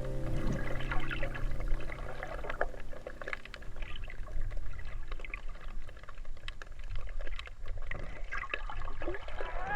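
Water sound picked up by a spearfisher's camera in the sea: a sloshing, trickling wash with many small scattered clicks and crackles.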